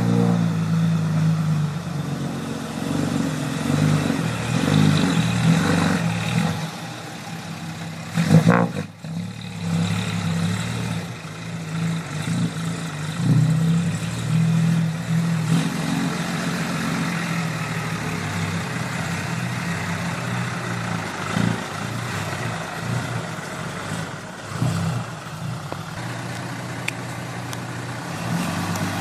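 Dump truck engine running and revving, its pitch rising and falling over the stretch. A brief loud burst comes about eight seconds in.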